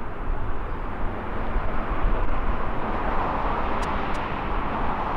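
Jet airliner engine noise on an airfield: a steady rushing noise over a low rumble, growing a little louder about three seconds in.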